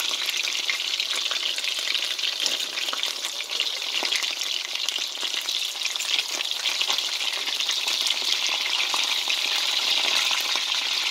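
Chicken breast pieces sizzling and crackling steadily in hot oil in a wok, nearly cooked and browned.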